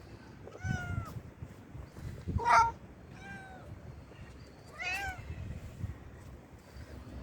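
A domestic cat meowing four times, with short arched calls a second or two apart; the second one is the loudest.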